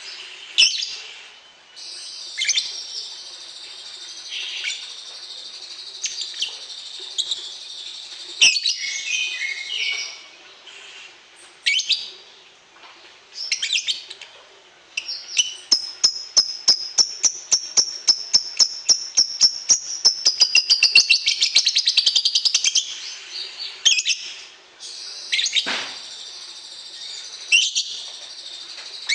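Caged songbirds singing and chirping together, the sound of a latber bird-contest training session. In the middle a fast, evenly repeated trill runs for about seven seconds.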